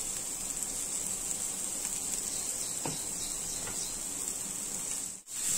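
Chopped onion stuffing frying in oil in a nonstick pan, sizzling steadily with a few faint crackles. The sound cuts out briefly near the end.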